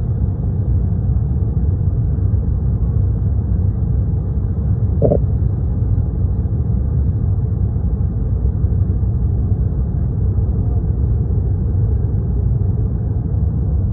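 Steady low rumble of airliner cabin noise: the engines and airflow heard from a passenger seat. There is one brief short tone about five seconds in.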